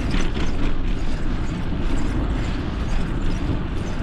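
Steady wind rush and road rumble on the microphone of a bicycle-mounted camera while riding.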